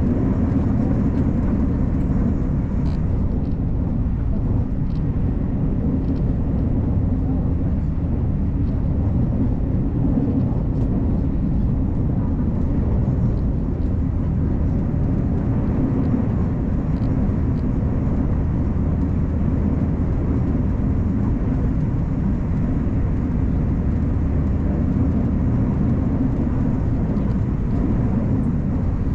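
Steady low rumble of a Puyuma Express tilting electric train running at speed, heard from inside the carriage.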